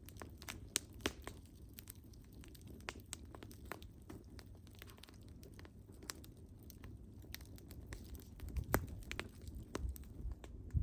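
Wood fire crackling: irregular sharp pops and snaps over a low steady rumble, with a few louder pops near the end.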